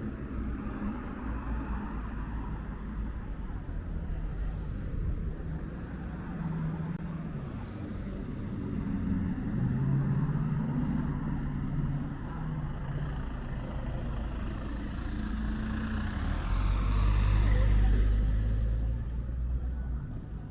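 Road traffic: car engines running close by, with one vehicle passing loudly near the end.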